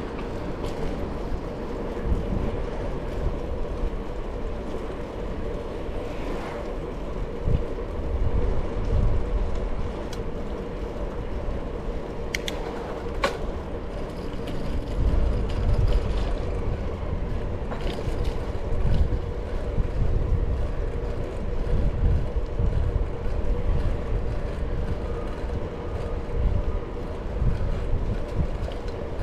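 Wind rumbling on the microphone of a moving bicycle, in uneven gusts, over a faint steady hum. A few sharp clicks come a little before halfway.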